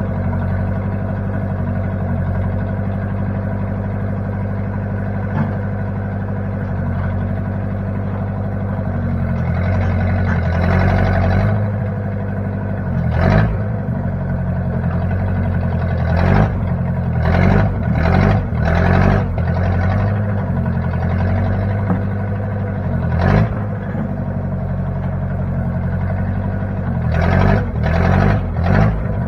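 Engine of a 1960 Case backhoe running steadily, with a series of short, louder surges or knocks in the second half.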